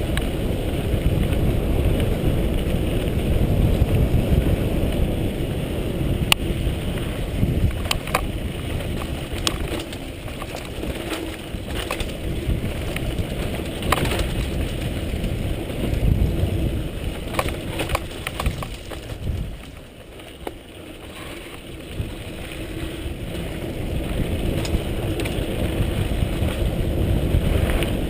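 Riding noise from a bike moving along a dirt trail: wind rumbling on the microphone, with scattered clicks and rattles from the bike over rough ground. It eases off briefly about two thirds of the way through.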